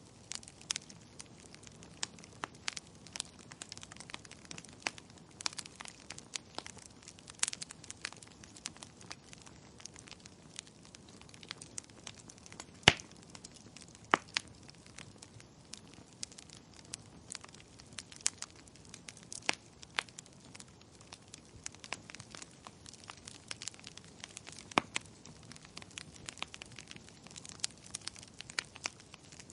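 Wood fire crackling: irregular sharp pops and snaps over a faint steady hiss, with one loud pop about halfway through.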